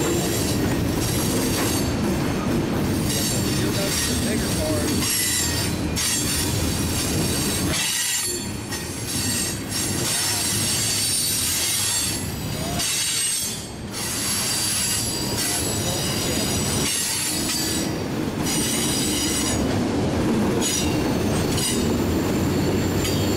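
Freight train cars rolling past with a steady rumble, their steel wheels squealing in high, sustained tones against the rail.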